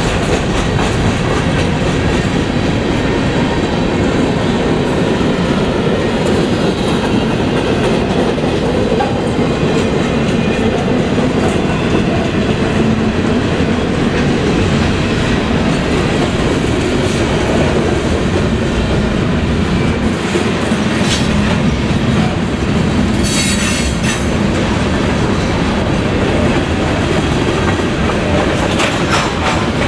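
Freight train cars rolling past at close range, with steady wheel-on-rail clatter. Brief high wheel squeals come about two-thirds of the way through.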